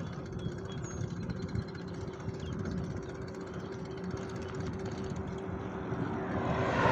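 Highway traffic running alongside, a steady rumble and tyre noise, with a vehicle's whoosh growing louder near the end as it approaches.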